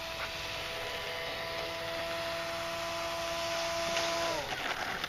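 A radio-controlled model airplane's motor runs at a steady speed with an even whine, then is throttled back and spins down about four and a half seconds in.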